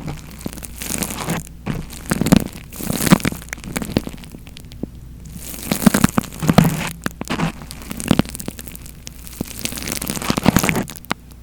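Close-miked ASMR trigger sounds: crackly rubbing and crinkling noises that swell and fade unevenly, with many small clicks.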